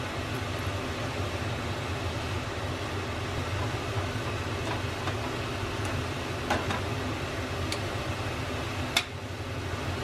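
A small motor running with a steady low hum, and a few light clicks, the sharpest one near the end.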